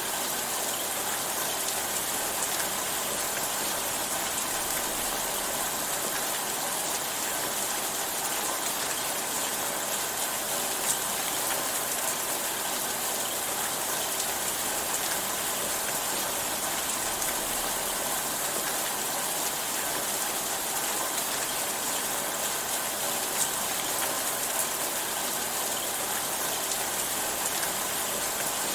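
Steady rainfall, an even hiss of many drops with an occasional sharper tick of a single drop.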